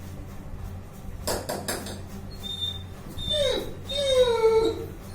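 Saint Bernard dog whining: a few short knocks about a second in, then two high-pitched whimpering calls, a short one falling in pitch and a longer drawn-out one near the end.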